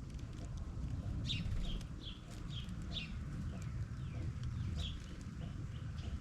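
Small songbirds giving short, high, down-slurred chirps, a quick run of about six in the first half and another single chirp near the end, over a steady low rumble.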